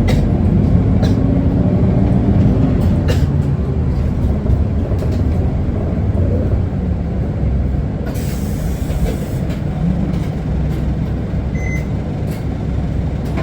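Isuzu Erga city bus running, heard from inside the cabin: a steady low rumble of its diesel engine and road noise, with light rattles and clicks. A brief hiss comes about eight seconds in.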